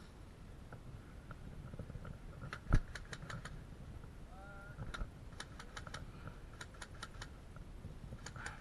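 Airsoft guns firing in short volleys of sharp clicks, a few shots at a time, with one louder, nearer crack about three seconds in. A brief gliding call sounds in the distance in the middle.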